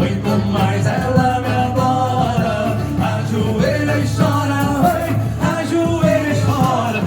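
A small band playing a song, with a steady low beat under a melodic lead line.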